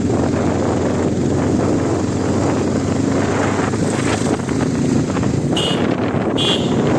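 Wind buffeting the microphone, a steady loud rumble, with two brief high-pitched tones near the end.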